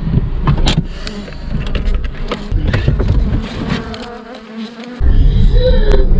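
Swarm of disturbed honeybees buzzing around knocked-over beehives. A louder low rumble sets in suddenly about five seconds in.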